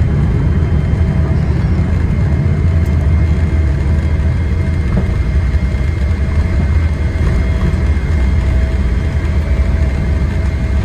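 Steady low rumble of a Boeing 777-300ER's GE90 engines and airframe heard from inside the cabin on the ground after landing, with faint steady whines over it.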